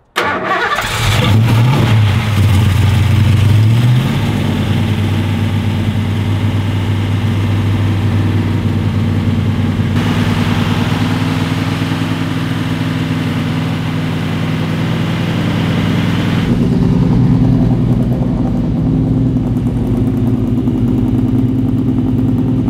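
Freshly rebuilt Ford 351 Cleveland V8 firing almost at once on its first start-up, revving up for a few seconds, then running steadily.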